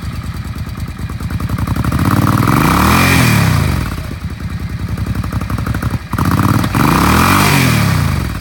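2001 Suzuki Intruder Volusia VL800's liquid-cooled V-twin idling, then revved twice. Each rev rises and falls over about two seconds.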